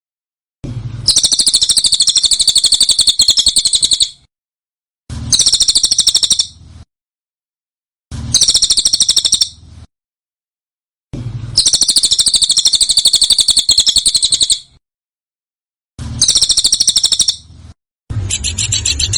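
Recorded songbird song made of rapid, rattling trills of densely packed notes. It comes in six bursts of one to three and a half seconds, each cut off abruptly into silence.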